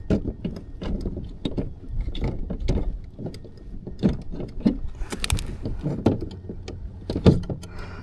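Irregular clicks and knocks of fishing gear and a fish being handled aboard a kayak, over a low rumble.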